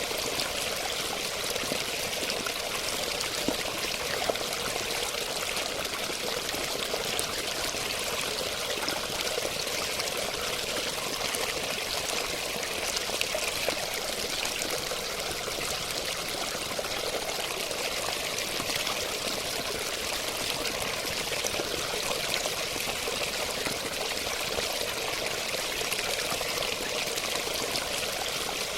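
Running water flowing steadily and evenly without a break, with faint small ticks of droplets through it.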